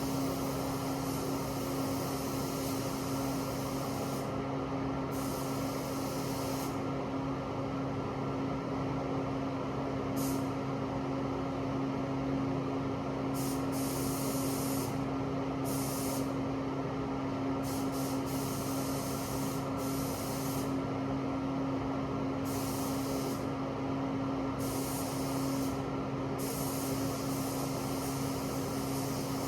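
Paint spray gun hissing in repeated passes of one to three seconds each, switching on and off, over a steady electric motor hum.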